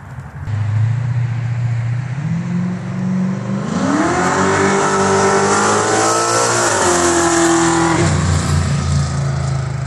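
LS V8-swapped Ford Mustang accelerating hard, its engine note climbing steeply about four seconds in, held high for a few seconds, then dropping about eight seconds in as the throttle comes off.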